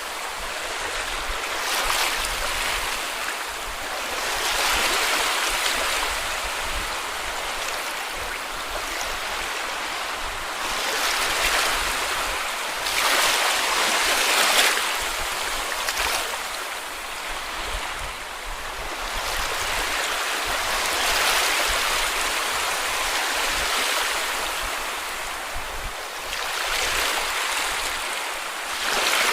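Small sea waves washing onto a beach, each one surging and then drawing back every few seconds.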